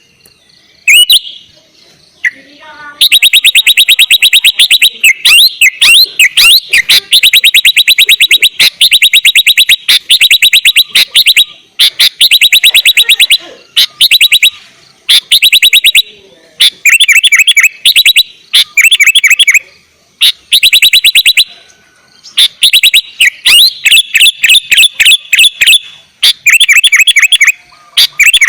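A sooty-headed bulbul (kutilang) singing in full, intense song: fast chattering runs of repeated notes in loud bursts of a second or two with short pauses between them. It starts with a few short single calls, then sings almost continuously from about three seconds in.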